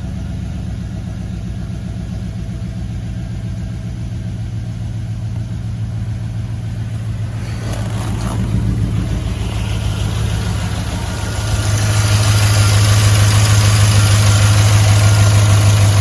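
Freshly rebuilt Gen IV 5.3-litre Vortec V8 running on its first cold start, a steady low engine hum that grows louder from about eight seconds in and louder again from about twelve seconds.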